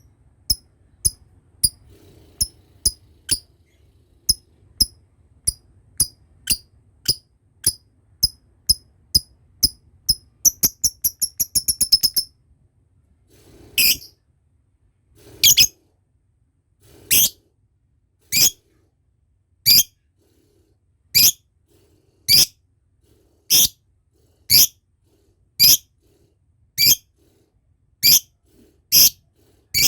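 Lovebird calling with sharp, shrill chirps repeated in a row, speeding up into a fast rattling series (the 'ngekek' trill bird keepers train for) that breaks off partway through. After that come single shrill calls about one every second and a half.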